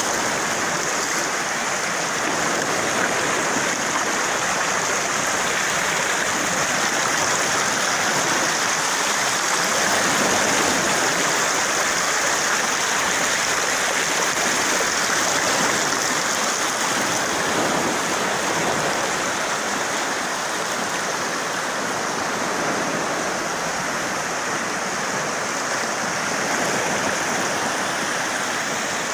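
Steady rush of running water flowing over rocks, an even hiss with no breaks.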